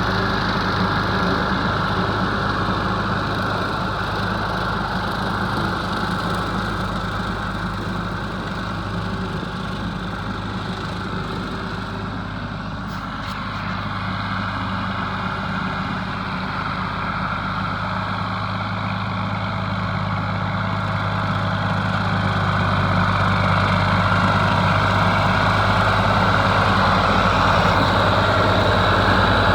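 Ford 4000 three-cylinder diesel tractor engine running steadily. It dips slightly in loudness around the middle and grows louder over the last several seconds.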